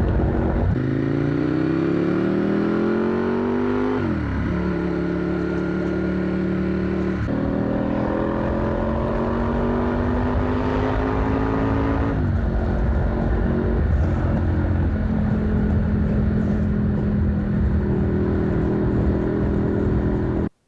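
Motorcycle engine pulling through the gears. The revs climb, drop at a shift about four seconds in and hold, climb again from about seven to twelve seconds, drop once more, then settle to a steady cruise. The sound cuts off suddenly at the very end.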